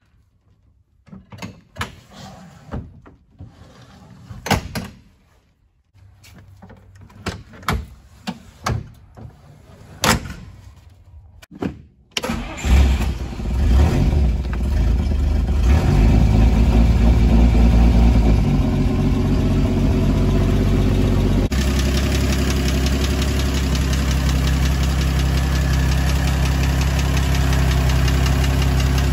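For about twelve seconds, irregular clicks and knocks come from a 1954 Kaiser Darrin's sliding doors and latches being worked. Then the car's Willys F-head straight-six cranks and catches on a cold early-morning start. It runs louder for a few seconds, then settles into a steady idle.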